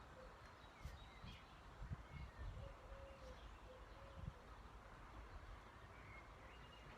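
Near silence with faint bird calls, and a few low rumbles or thumps about one to two and a half seconds in.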